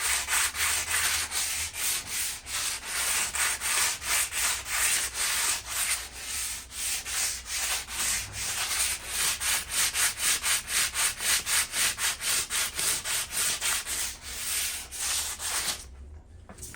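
Rusted metal patio table being hand-sanded to take off surface rust: fast, even back-and-forth scraping strokes, about three to four a second, that stop near the end.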